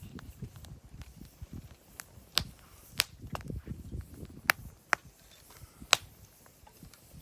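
Wood campfire crackling, with about seven sharp pops at uneven gaps over a soft low rumble.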